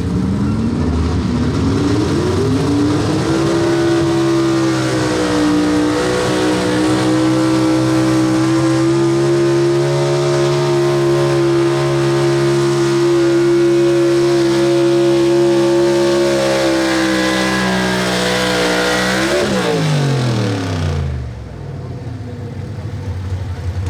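Pulling truck's engine revving up over the first few seconds and then held at high, nearly steady revs under load for about fifteen seconds. About twenty seconds in the throttle is lifted and the revs fall quickly away to a low idle.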